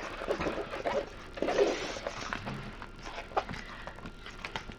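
Rustling and handling of a rolled diamond painting canvas and its plastic cover film, with a few light clicks.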